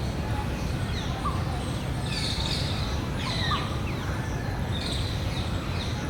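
Several birds chirping, with short, quickly falling calls overlapping each other, over a steady low rumble.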